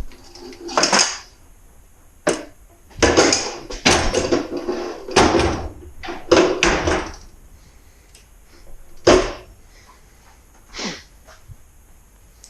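Irregular clunks, knocks and scrapes of parts and tools being handled, thickest in the first seven seconds, with a sharp knock about nine seconds in and a fainter one near eleven seconds.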